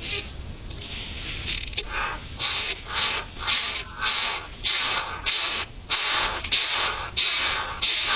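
Coucal chick making a harsh, rhythmic hiss, about two bursts a second, starting about two seconds in.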